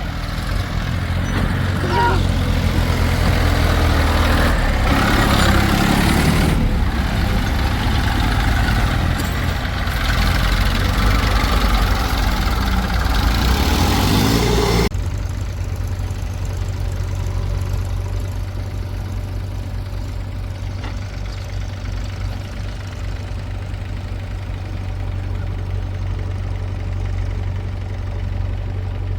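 Heavy diesel machinery engine running steadily. For about the first fifteen seconds it is louder, with rough noise over it that stops abruptly; after that the engine idles more quietly.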